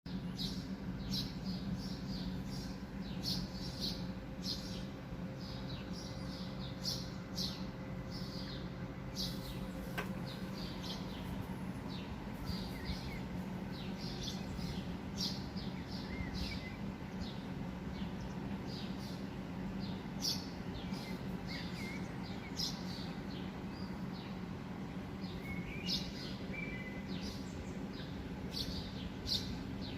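Many small birds chirping rapidly and continuously, over a steady low rumble.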